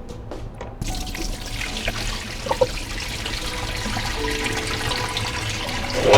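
Water running steadily, like a tap, starting suddenly about a second in, with soft background music under it and a brief louder splash near the end.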